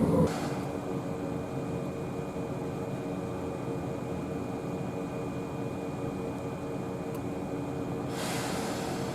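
Steady mechanical hum of an electric train, with a few constant tones and a brief hiss about eight seconds in.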